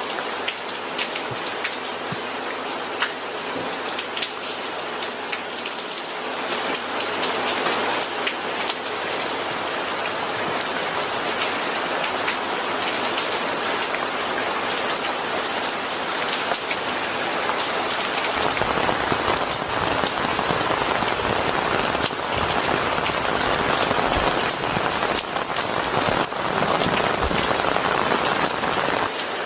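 Steady rain falling on a surface, a dense patter with many distinct drop ticks. It grows a little heavier about six seconds in and fuller and deeper about two-thirds of the way through.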